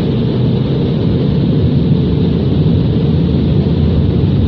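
Car wash air-dryer blowers blasting air over the car, heard from inside the closed car as a loud, steady, deep rush of air.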